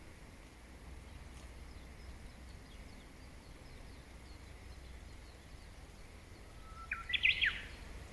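Wild birdsong over a steady low background hum: faint distant chirps early on, then one short, loud burst of rapid notes from a nearby bird near the end.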